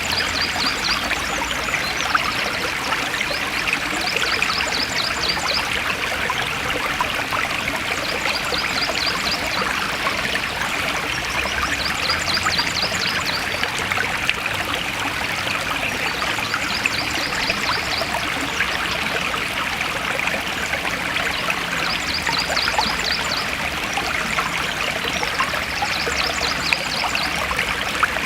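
Forest stream flowing steadily, with a high, rapid trill repeating every few seconds above the water.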